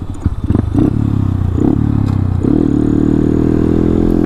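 Motorcycle engine with a newly fitted DHM high-compression piston, still being run in, pulling while the bike is ridden. It picks up from a low, pulsing beat about half a second in, and its pitch then climbs slowly as the bike gains speed.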